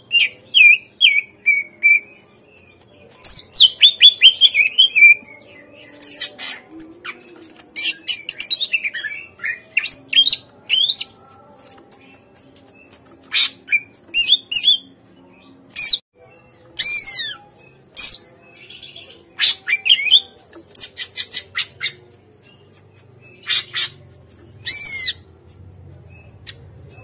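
Cucak ijo (green leafbird) singing: rapid bursts of loud, high chirps and falling whistled notes, broken by short pauses. It is a lure song, the kind played so that captive cucak ijo answer and sing.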